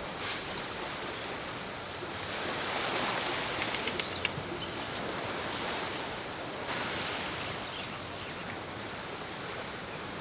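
Sea waves breaking and washing on the shore, a steady rush that swells and eases, with wind.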